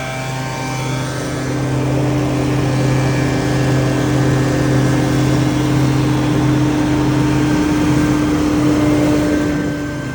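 Engine-driven debris blower running, with a steady engine hum under a rush of air that grows louder after about a second and eases off near the end.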